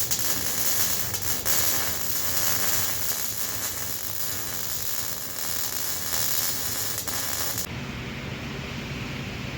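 Electric arc welding: a steady, dense crackle like static as a bead is run on steel angle iron. The arc stops about eight seconds in, leaving a lower hum.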